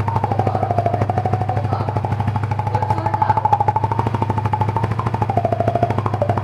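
Yamaha Vixion single-cylinder motorcycle engine idling, its exhaust giving a fast, even pulse with a strong low note. Music plays over it, with one long wavering melodic tone.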